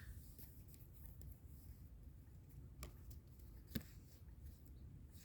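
Near silence: room tone with a few faint clicks, about three, the last near the end.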